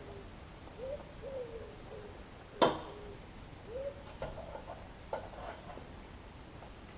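A dove cooing, a few short rising-and-falling coos, with one sharp loud knock about two and a half seconds in and a few lighter knocks after it.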